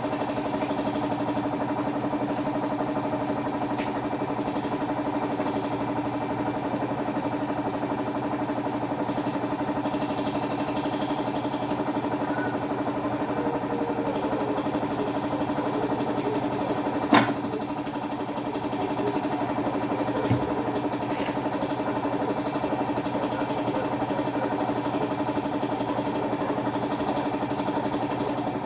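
A motor running steadily with an even, unchanging hum, broken by one sharp click partway through and a lighter knock a few seconds later.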